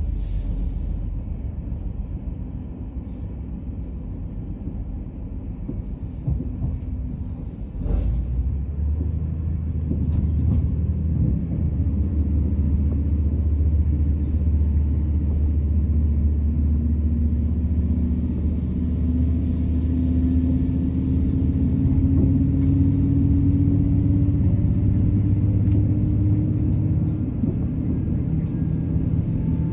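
TransPennine Express passenger train running, heard from inside the carriage: a steady low rumble with a couple of sharp clicks, growing louder about a third of the way in, and a tone climbing slowly in pitch in the later part.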